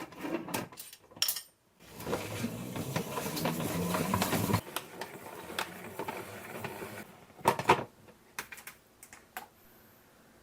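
Kitchen work: sharp clinks and clatter of dishes and utensils, with a longer rasping, scraping stretch in the middle and a few more clicks near the end.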